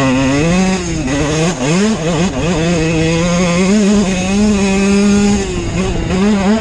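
Dirt bike engine running under changing throttle. Its pitch rises and falls several times, holds steady for about three seconds, then drops and climbs again near the end.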